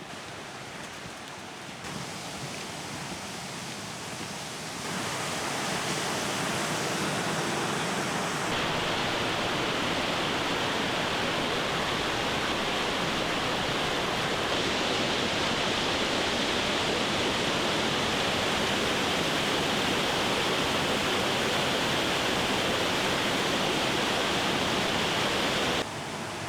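Rushing water of a mountain stream or small waterfall, a steady hiss that grows louder in several sudden steps and drops off abruptly near the end.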